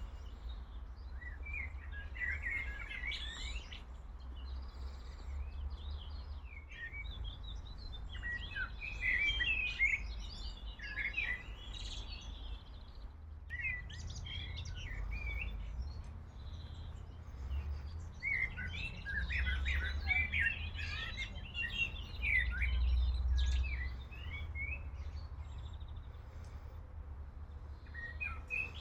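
Small songbirds chirping and singing in bursts of quick trills and calls, over a steady low rumble.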